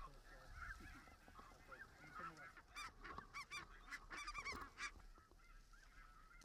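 A flock of snow geese calling: many short, high honks overlapping, faint, with a busier burst of calls in the middle.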